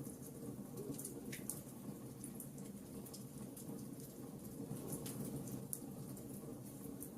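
Wood fire burning in a fireplace: irregular sharp crackles and pops over a steady low hum of the flames.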